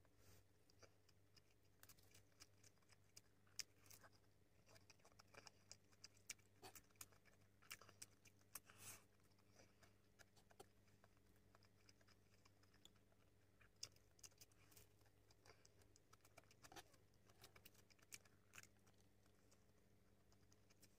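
Faint chewing and mouth clicks of a person eating by hand, scattered irregularly, over a low steady hum.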